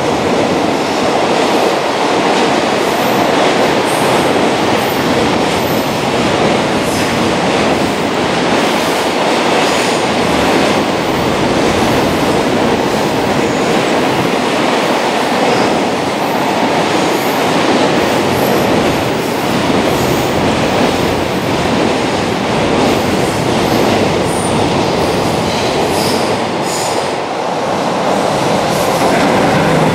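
Long freight train of container wagons running past at speed on an elevated line: a steady, loud rumble of steel wheels on rail with the clickety-clack of the rail joints.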